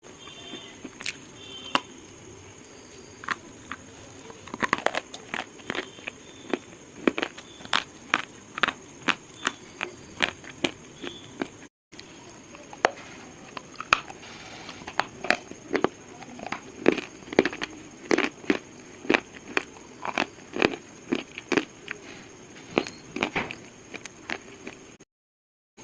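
Pieces of slate being crunched: a run of sharp, irregular crisp cracks and snaps, a few each second, over a steady hiss, with two brief gaps of silence.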